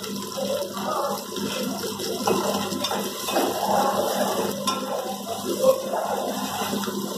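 Sliced onions, green chillies and curry leaves frying in hot oil in a metal pot: a steady sizzle.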